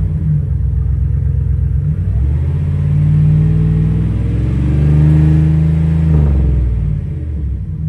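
2001 Dodge Ram 2500's engine revving twice through a muffler-deleted exhaust: the pitch rises and holds, dips, rises and holds again, then falls back to idle near the end.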